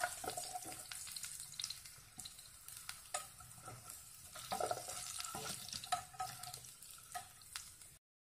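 Prawns frying in oil with a faint sizzle, while a wire spider strainer and wooden spatula scrape and clink against the pan as the fried prawns are scooped out. The sound cuts off suddenly near the end.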